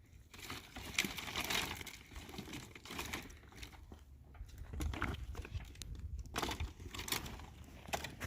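Irregular rustling and crinkling with scattered small clicks and taps, as of something being handled.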